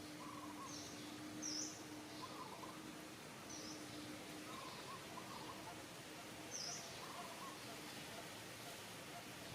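Faint outdoor ambience of short high bird chirps, repeating every couple of seconds, over a low steady hum that comes and goes.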